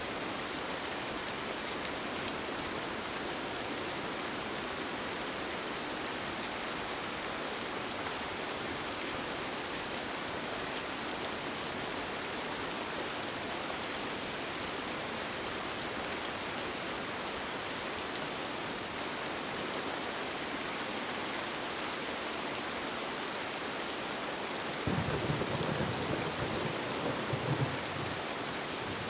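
Steady rain falling, with a brief low rumble for about three seconds near the end.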